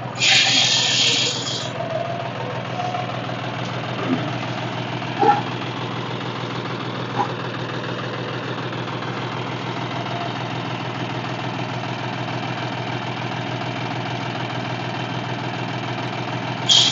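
A tractor's diesel engine idling steadily with an even low beat. A brief high hiss sounds over it at the start.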